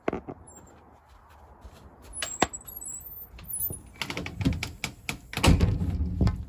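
A run of sharp clicks and knocks: a few scattered ones, then a dense cluster from about four seconds in, loudest near the end.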